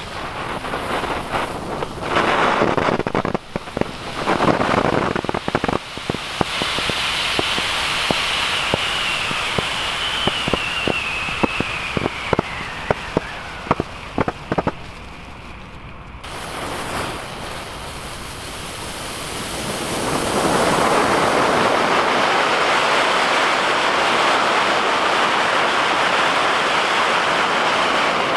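Ground firework fountains (ST8MENT Bonsai fountains) burning with a steady hiss and many crackling pops, while a whistling tone slowly falls in pitch. The sound breaks off abruptly about halfway through, then a steady hiss of a fountain spraying returns and grows louder.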